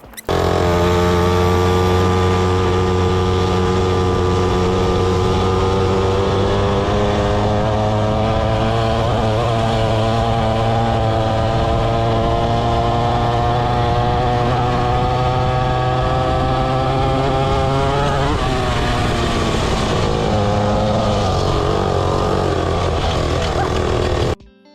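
Pit bike engine running steadily, its pitch creeping slowly upward, then changing about eighteen seconds in. The sound starts and stops abruptly.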